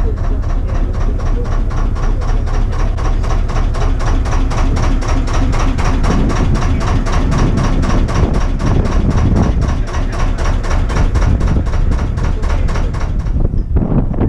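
An engine running slowly and evenly with a steady beat of about four pulses a second over a low rumble, stopping about a second before the end.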